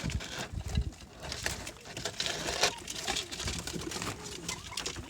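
Sanaani pigeons cooing softly, with scattered light taps and clicks as they peck at a feed of grain mixed with yogurt.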